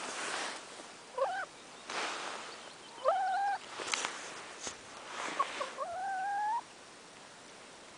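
Hen making three squeaky pitched calls, the first two short and the last one long and slowly rising in pitch.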